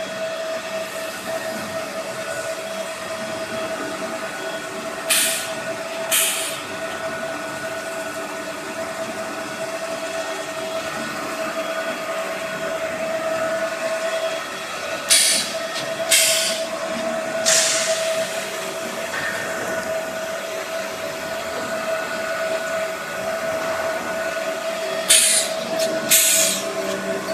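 Polystyrene hot melting compactor running with a steady whining hum. Short hisses break in several times, mostly in pairs about a second apart.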